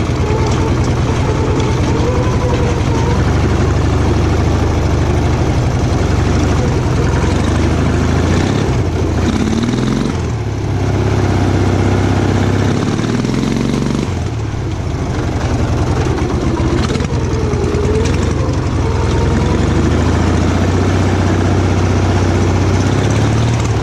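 Offroad lawn tractor's engine, with one exhaust straight-piped and no muffler, running under way. Its revs rise and fall, dipping briefly about ten and fourteen seconds in.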